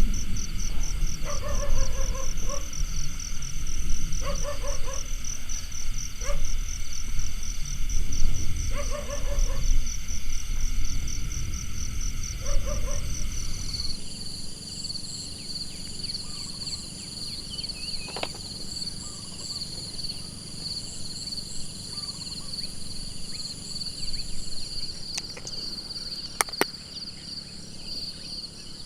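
Night forest ambience of insects trilling high and continuously. For the first half a short, low animal call repeats every second or two over a low rumbling background. About halfway through this cuts abruptly to a quieter, steadier insect chorus with an occasional faint click.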